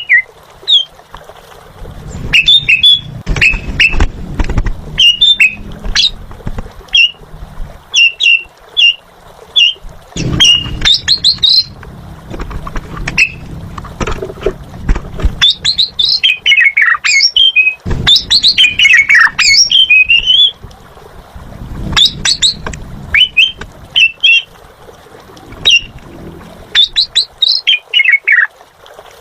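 Asian pied starling (jalak suren) singing in full voice: a rapid, loud string of sharp whistles, chirps and squawks, with runs of falling notes about midway. A low rumble comes and goes underneath.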